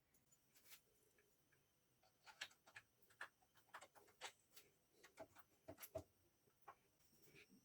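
Near silence broken by faint, irregular small clicks and ticks, a few a second, thickest in the middle of the stretch.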